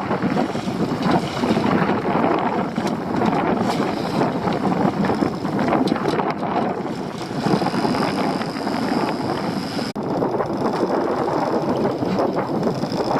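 Wind buffeting the microphone aboard a small open fishing boat, over the steady rush of the boat and sea. A thin high whine joins about seven or eight seconds in, and the sound breaks off for an instant near ten seconds.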